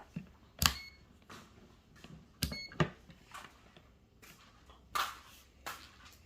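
Scattered sharp clicks and knocks from handling tools and parts, the first two with a brief metallic ring, then softer rustling near the end.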